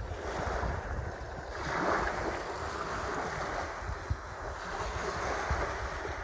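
Sea waves washing in, with wind buffeting the microphone; a wave swells up about a second and a half in.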